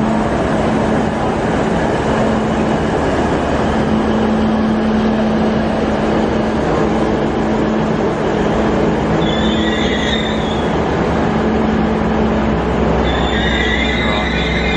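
Hunter railcar diesel multiple unit running on the rails with a steady rumble and hum. Its wheels squeal briefly about ten seconds in and again near the end.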